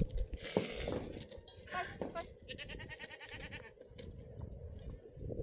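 Livestock bleating, with one long wavering bleat about two and a half seconds in. A short herder's call comes just before it.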